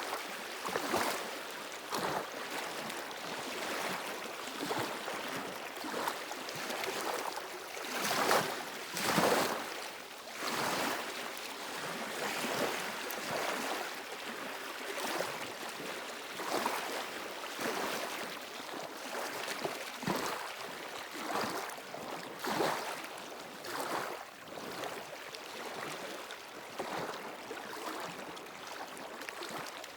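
Sea waves washing against stones at the shoreline: a steady run of short splashes and surges, the loudest about eight to ten seconds in.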